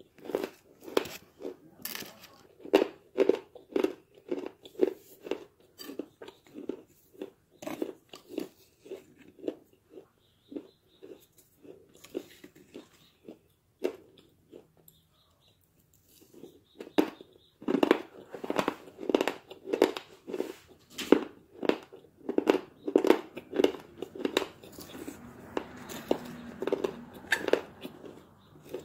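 Close-up chewing of crunchy baked clay chunks: a steady run of crisp crunches, two or three a second. The crunching thins out and stops for a few seconds in the middle, then resumes.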